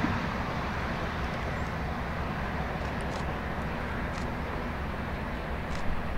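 Distant freight train's diesel locomotives running as the train approaches, a steady low rumble. A few brief faint high chirps sound over it.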